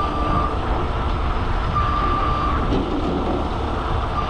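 Heavy truck's engine running steadily, with a warning beep sounding three times, each about half a second long and roughly two seconds apart.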